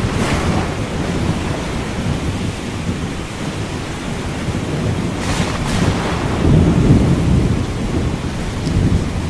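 Thunderstorm with steady rain and rolling thunder, the rumble swelling to its loudest about two thirds of the way through, mixed with ocean surf.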